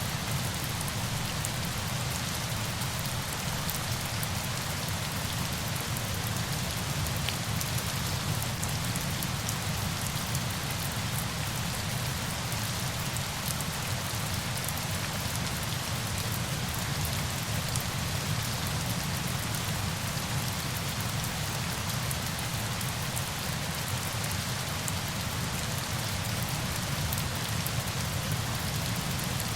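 Steady, even rush of falling water, with a fine patter of drops in it.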